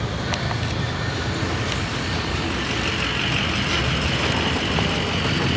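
Car engine idling steadily with a low, even hum. A steady hiss joins in about halfway through.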